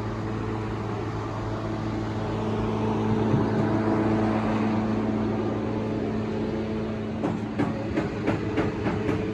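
A steady mechanical hum from a running machine, with a quick run of sharp clicks or knocks in the last two seconds.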